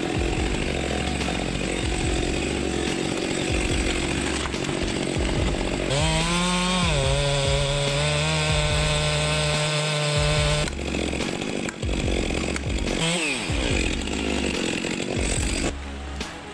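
Two-stroke chainsaw running hard and cutting wood. About six seconds in its engine revs up and holds a steady high pitch for several seconds, then falls back, with a brief dip and recovery in revs a little later.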